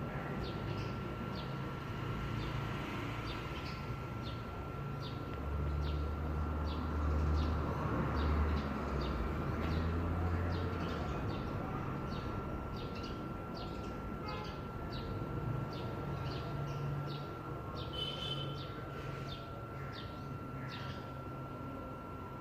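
Birds chirping in short, repeated calls over a steady high hum, with a low rumble that swells and fades between about five and eleven seconds in.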